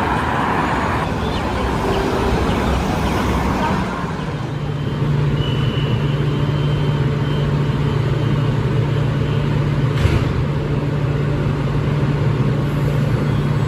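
Traffic noise for about four seconds, then a vehicle's steady low hum over a rumble.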